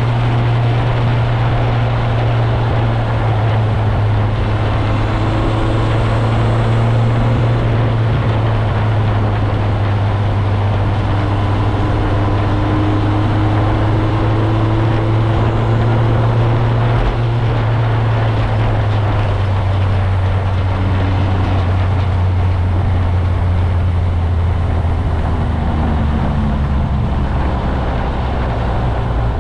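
Motorcycle engine running under way, with road and wind noise. The low engine note holds steady, then drops in steps in the second half as the bike slows or shifts.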